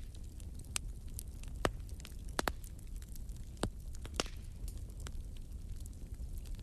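Wood fire burning in a fireplace: a steady low rumble with irregular sharp pops and crackles, a few louder snaps about a second and a half to four seconds in.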